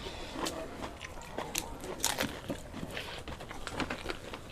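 Close-up eating sounds: chewing and biting with irregular wet smacks and crisp crunches, as of fried mughlai paratha and chowmein being eaten quickly.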